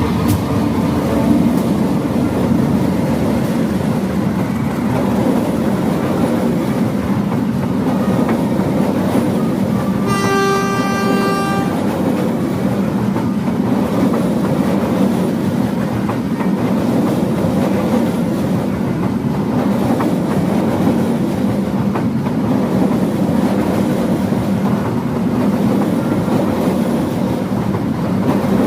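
Passenger train running past at close range, a steady loud rumble of steel wheels on the rails. About a third of the way through, the CC201 diesel-electric locomotive's horn sounds once for nearly two seconds.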